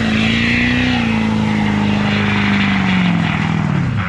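Truck engine held at high revs at full throttle during a rope recovery pull. The pitch holds high, sags, then drops sharply near the end.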